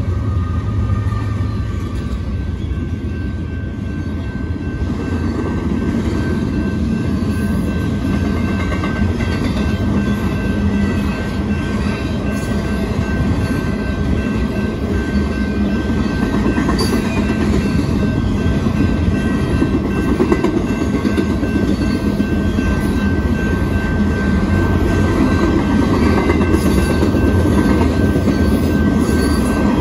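BNSF intermodal freight train passing close by: the last diesel locomotives, then trailer and double-stack container cars rolling past, wheels rumbling and clicking over the rails. A thin steady high-pitched tone runs through it.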